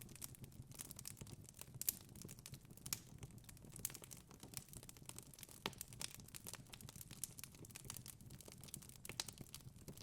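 Wood fire in a fireplace crackling: a quiet, irregular stream of small snaps and pops, with a few sharper pops standing out, about two seconds in and again near nine seconds.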